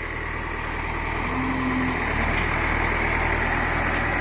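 Eicher tipper truck's diesel engine running while driving, growing gradually louder.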